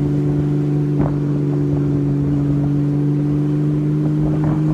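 Honda Valkyrie motorcycle's flat-six engine running at a steady, unchanging pitch as the bike rides on, with a single faint click about a second in.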